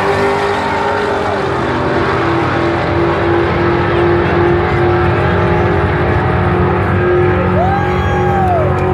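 Drag-racing car engines running, a loud steady drone with a held tone throughout. Near the end comes a short whistle-like tone that rises and falls.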